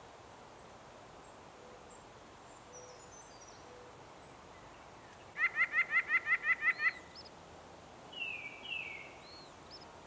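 Wild songbirds calling: a quick run of about ten repeated notes, about seven a second, then a second later two slurred, falling whistled notes, with faint high chips earlier.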